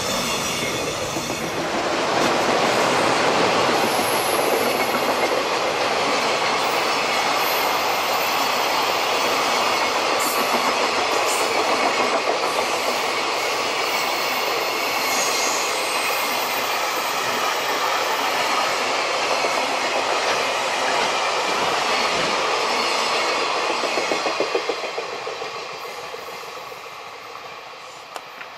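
A long freight train of container flatcars rolls past at speed, making a steady rail noise. A run of sharp clacks comes near the end as the last wagons pass, and then the sound fades away as the train recedes.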